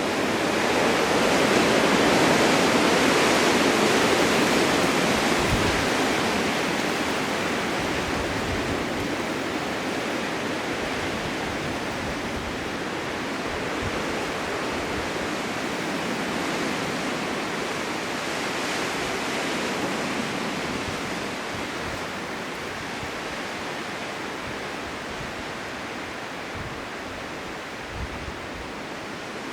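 Blizzard wind blowing as a steady rushing noise, swelling in a gust over the first few seconds, then slowly easing.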